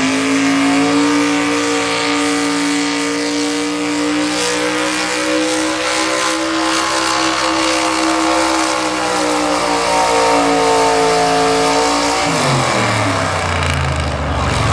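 Two-wheel-drive super stock pulling truck's engine at full throttle dragging a pulling sled. The pitch climbs right at the start, holds high and nearly steady, then falls off sharply about twelve seconds in as the throttle is let off at the end of the pull.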